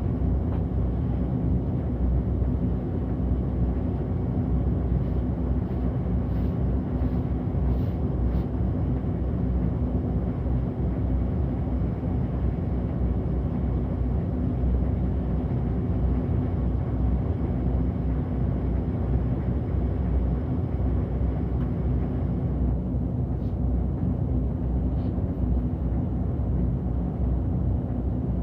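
City bus engine and road noise heard from inside near the front while the bus is under way: a steady low rumble with a faint hum running through it.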